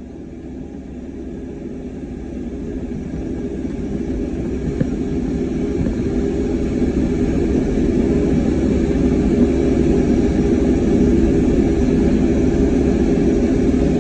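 Cat 305 mini excavator's diesel engine running steadily with a low rumble, growing gradually louder over the first several seconds, then holding.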